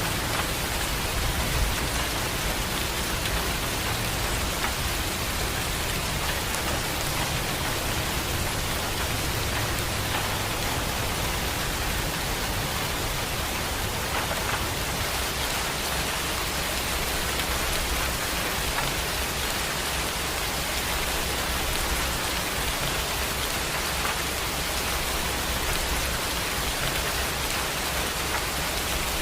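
Heavy rain falling steadily in a dense, even hiss, with a low rumble underneath.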